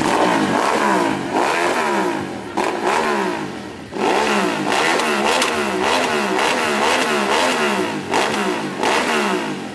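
Superbike engine revved over and over, its pitch rising and falling about twice a second, with a short dip about three and a half seconds in.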